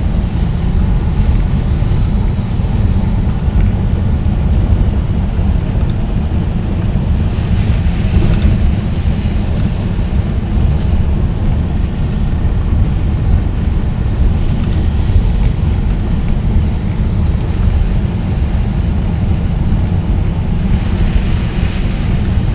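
Steady low rumble of a vehicle on the move in heavy rain, with wind noise on the microphone.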